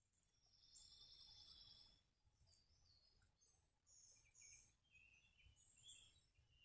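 Faint songbird song: a quick trilling phrase, then a run of shorter high chirps.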